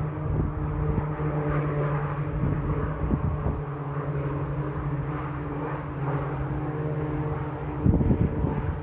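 Propeller-driven water bomber aircraft engines droning steadily, with a louder low rumble near the end.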